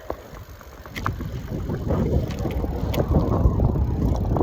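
Wind rumbling on the microphone of a moving bicycle rider, growing louder about a second in as the bike picks up speed, with a few light clicks and rattles.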